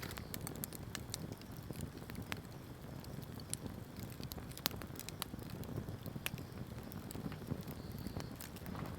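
Wood fire crackling: irregular sharp snaps and pops over a steady low rumble of burning.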